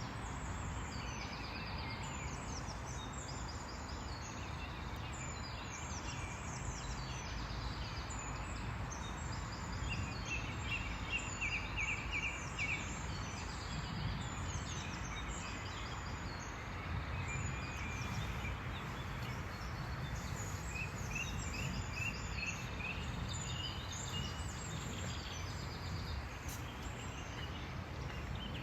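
Small birds singing and chirping, with a fast trilled phrase about ten to thirteen seconds in, over a steady low background noise.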